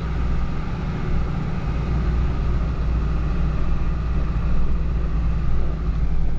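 Steady low drone of a vehicle's engine and road noise heard from inside the moving vehicle, even throughout with no distinct events.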